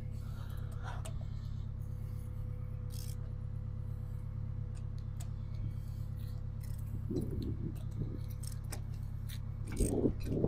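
Car engine idling steadily, a low even hum, with scattered light metallic clicks and taps from tools being handled. A sharp knock comes right at the end.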